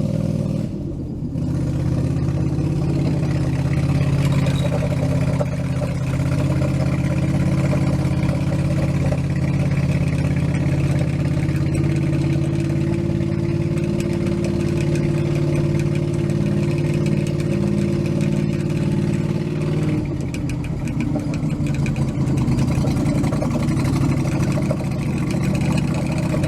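Engine of a home-built utility tractor running steadily while towing a car on a tow strap, the note easing a little about twenty seconds in.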